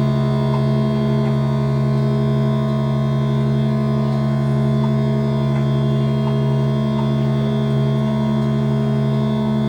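Modular synthesizer holding a steady drone of several sustained tones layered together, with a few faint ticks scattered over it.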